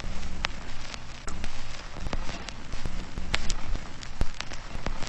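Steady hiss with irregular sharp crackles and ticks scattered throughout, as in an ambient background soundscape, over a faint low hum.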